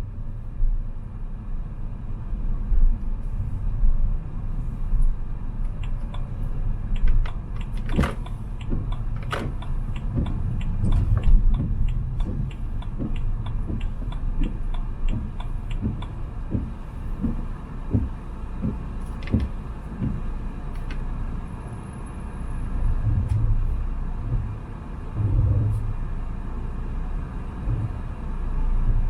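Car driving on wet city roads: steady low engine and tyre rumble. A run of quick, evenly spaced ticks, about two or three a second, runs for about ten seconds near the middle, with a couple of sharper knocks among them.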